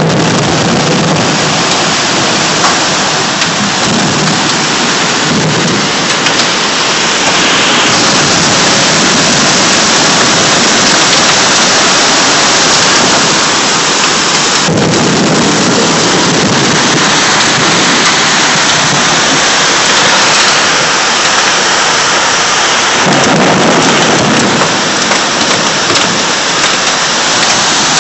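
Heavy rain pouring down in a loud, steady hiss, with deeper rumbling swells about halfway through and again near the end.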